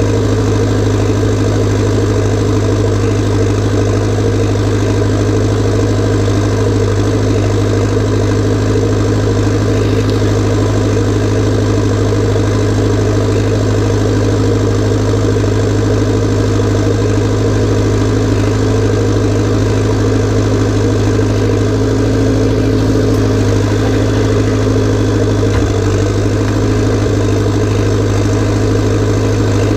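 Massey Ferguson tractor's diesel engine running at steady, unchanging revs, with a strong low hum.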